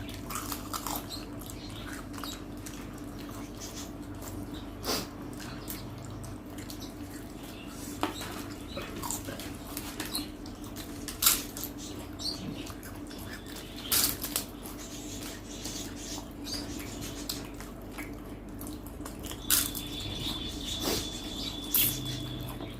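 Mealtime eating sounds: scattered sharp crunches and clicks of papad being broken and chewed, with dishes clinking, over a steady low hum.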